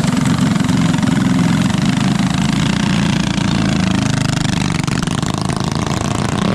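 Small mini bike engine running steadily and loudly.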